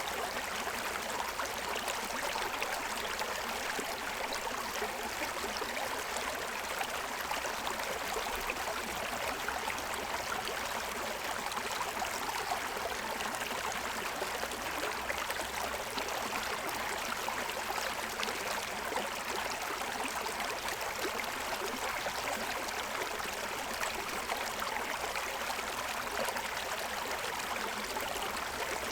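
Shallow stream running steadily over the stones of its bed: an even splashing and gurgling rush.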